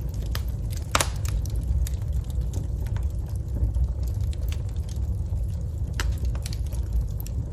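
Wood fire crackling in a fireplace: a steady low rumble of flames with scattered sharp pops and snaps, the loudest about a second in.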